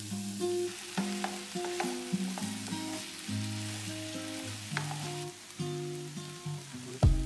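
Diced potatoes and onions sizzling as they fry in a pan, stirred with a wooden spoon, under background music of held notes. A few low thumps come right at the end.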